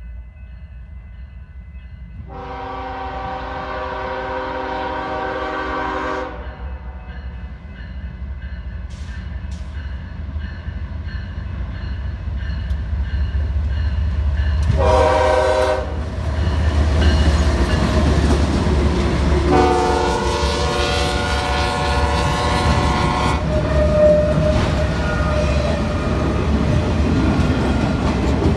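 BNSF ES44DC diesel locomotive's air horn sounding a long blast, a short one and another long blast as the train approaches, over a rising rumble of the engine and wheels on rail. The freight train passes close by in the second half, with steady wheel and rail noise.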